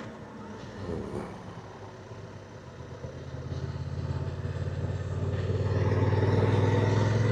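Motorcycle engine running, quiet at first, then pulling harder under throttle and getting steadily louder from about three seconds in.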